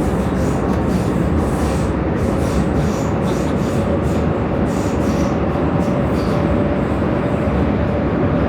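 Prague metro train running through the tunnel: a steady rumble of wheels on rail and running gear, with a faint mid-pitched whine that climbs slightly in pitch.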